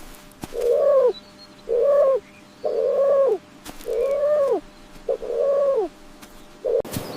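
Repeated animal calls, likely a bird: five calls about a second apart, each held steady then dropping in pitch at its end, and a short sixth note cut off near the end.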